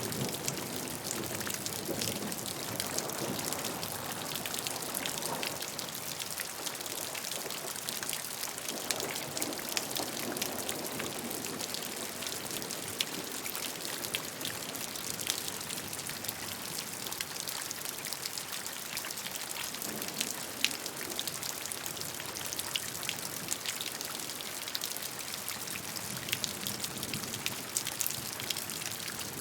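Steady gentle rain with many small drops ticking on a surface, over an even hiss.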